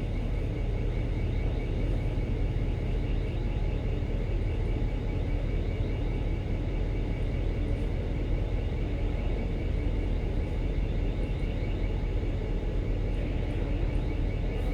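Steady low drone of a ship's machinery heard on board, a constant rumble with a faint whine, while the vessel manoeuvres to berth.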